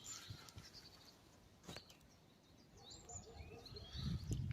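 Faint bird chirps, a few short high calls scattered through, with a single sharp click a little under two seconds in.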